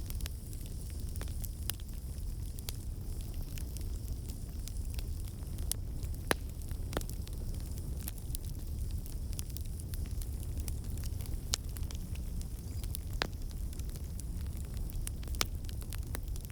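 Wood fire crackling in a fireplace: a steady low rumble of burning, with irregular sharp pops and snaps scattered throughout.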